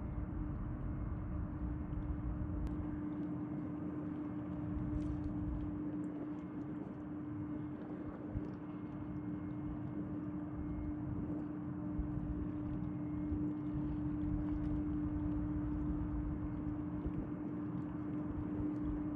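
Tugboat engine running steadily: a constant hum over a low rumble.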